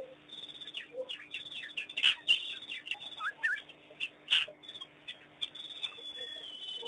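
A busy run of short, high chirps and twitters, with a few quick upward-sliding calls about three seconds in and a long thin high whistle near the end.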